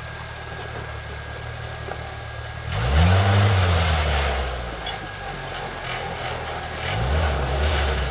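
1988 Suzuki Samurai's four-cylinder engine running at low speed while crawling over rocks. It is revved about three seconds in, rising then falling in pitch, which is the loudest part, and revved again more briefly near the end.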